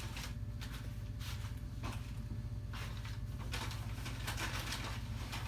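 Loud open-mouth chewing and lip smacking: a run of wet smacks and clicks at irregular intervals.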